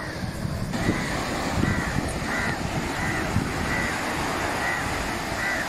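A bird calling over and over, short arched calls about one every three-quarters of a second, starting about a second in, over a steady low rush of wind and surf.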